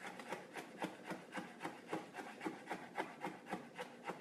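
Chef's knife making quick, light strokes through fresh dill on a cutting board, about four to five a second.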